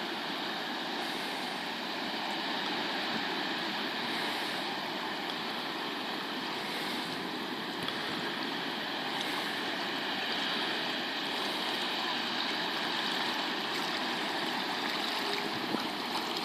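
Steady rushing of wind and small waves on a lake, with a faint steady hum underneath and soft swells of hiss every couple of seconds.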